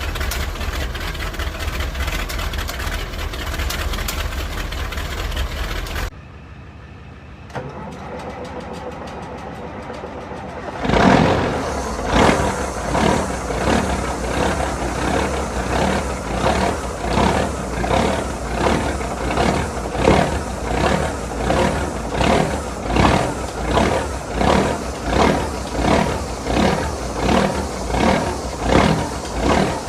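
Diesel truck engines. One runs steadily, then cuts to a quieter stretch. About eleven seconds in, another starts with a sudden loud burst and keeps running with an even pulsing, a little over once a second.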